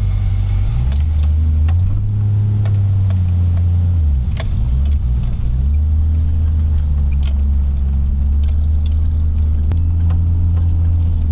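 Nissan Patrol engine running at low speed, heard from inside the cabin, its pitch shifting briefly about four seconds in, with scattered sharp clicks and rattles over it.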